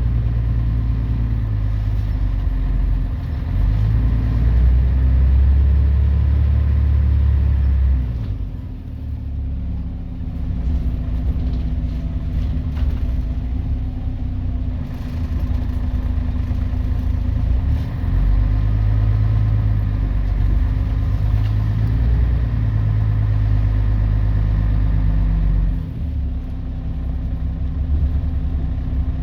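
Scania CN113CLL city bus with its Scania DSC 11.71 11-litre six-cylinder diesel under way through a Voith automatic gearbox. The engine pulls strongly, eases off about a quarter of the way in, pulls hard again a little past halfway and eases off once more near the end.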